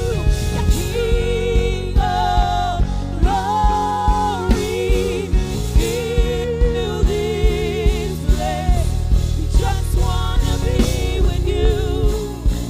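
Live gospel worship music: wordless or unclear sung melody with vibrato over sustained keyboard chords, bass and a steady drum beat of about two hits a second.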